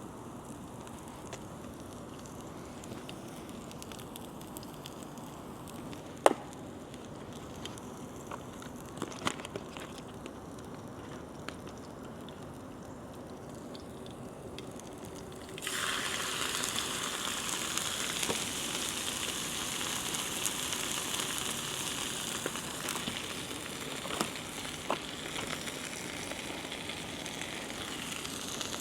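Quiet background with a few sharp clicks and knocks, then about halfway through a sudden loud sizzling starts, like food going into a hot pan, and carries on frying steadily.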